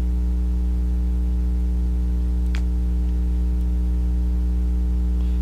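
Steady low electrical mains hum on the recording, with a faint click about two and a half seconds in.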